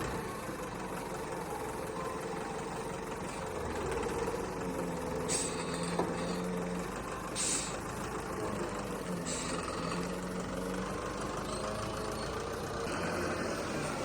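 A motor running steadily, with a few short bursts of hiss.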